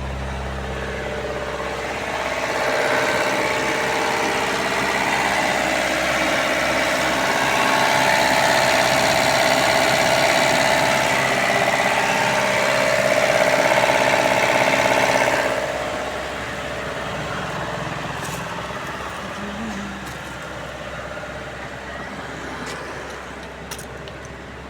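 Diesel engine of a Bolero Maxx Truck Plus pickup running during an active DPF regeneration, the soot-laden particulate filter being burned clean. It gets louder with a broad rushing note from about two seconds in, then eases back to a quieter steady run after about fifteen seconds.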